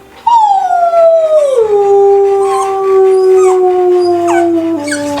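One long drawn-out howl that starts suddenly, about a quarter second in, and slides slowly down from a high to a low pitch, dropping in a few steps. Brief faint yips or whines sound over it a few times.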